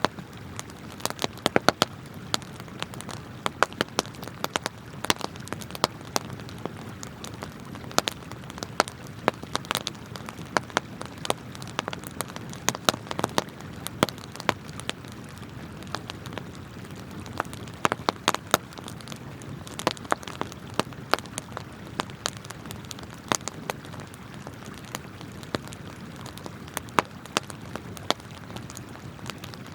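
Wood campfire crackling, with irregular sharp pops and snaps, a quick flurry of them about two seconds in, over the steady rush of flowing river water.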